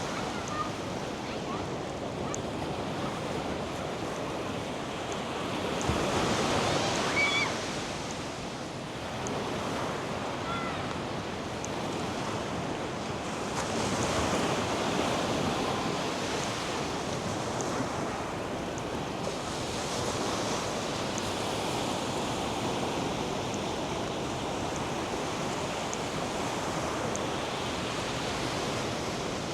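North Sea surf breaking on a sandy beach: a steady wash of waves that swells louder about six seconds in and again about fourteen seconds in.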